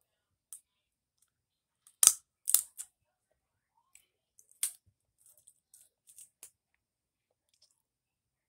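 Close-up eating sounds: scattered short, crisp clicks and crunches of biting and chewing a piece of meat, the loudest pair about two seconds in and a few faint ones near the end.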